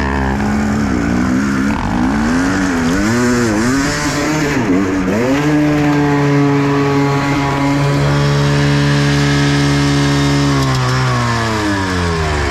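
Enduro dirt bike engine revving: several quick rises and falls in pitch, then held at high revs for about five seconds, then dropping off near the end.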